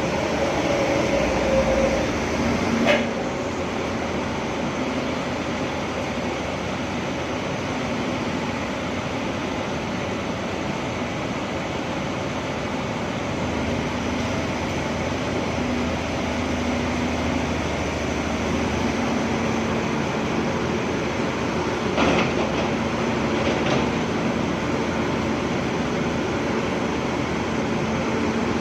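Hydraulic excavator's diesel engine running steadily, with a few sharp knocks: one about three seconds in and two more near the end.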